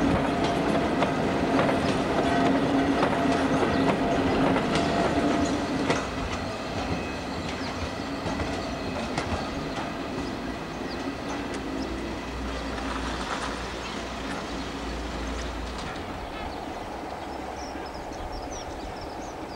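A train running past on the track, its wheels clicking over the rail joints under a steady hum. It is loud for the first six seconds, then drops and fades as it draws away.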